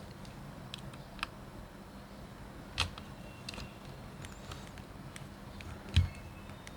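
Light clicks and taps of small tools and parts on a Nikon D90 camera body being taken apart, with two louder knocks about three seconds in and near the end.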